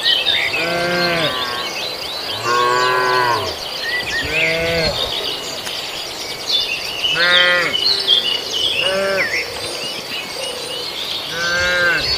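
Cattle mooing: about six short calls in turn, each rising and falling in pitch. Birds chirping high and continuously behind them.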